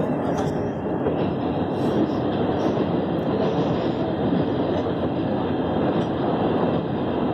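Passenger train running at speed, heard from inside the carriage: a steady rumble of wheels on the rails.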